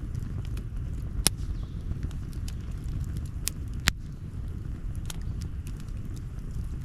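Outdoor wood campfire crackling: scattered sharp pops, with two louder snaps about a second and about four seconds in, over a steady low rumble.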